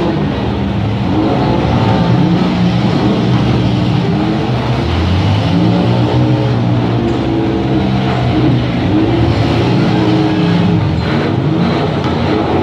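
Several demolition derby cars' engines running and revving together, their pitches rising and falling, loud and continuous.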